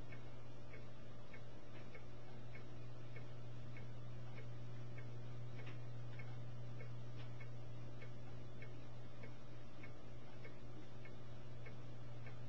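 Steady low electrical hum with faint, evenly spaced ticks, about two or three a second.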